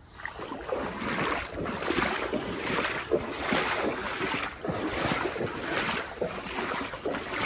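Legs wading through knee-deep floodwater, sloshing and splashing with each stride in a steady rhythm of about two steps a second.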